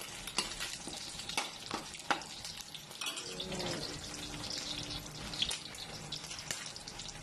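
Small pieces of meat sizzling in hot oil in an aluminium wok as their fat renders out. The sizzle is steady, with a few sharp clicks in the first couple of seconds.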